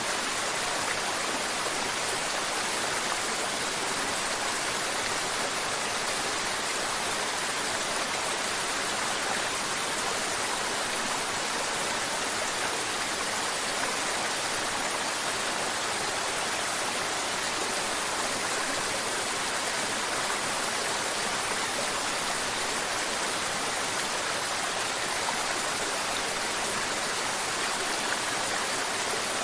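Mountain river water flowing and babbling, a steady, even rush with a hissy top and no breaks.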